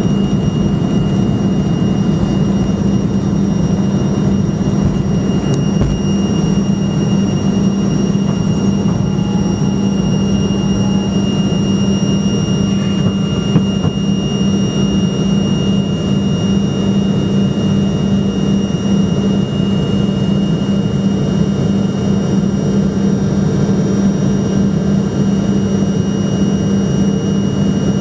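Fokker F28's rear-mounted Rolls-Royce Spey turbofan engines running steadily, heard from inside the cabin: a low, constant hum with thin, high, steady whine tones over it.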